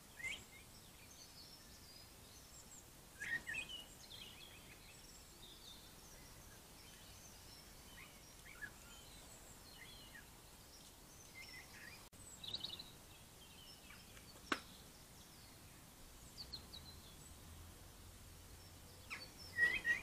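Small garden birds chirping and calling in short scattered phrases over a steady faint hiss, loudest near the end, with one sharp click about two-thirds of the way through.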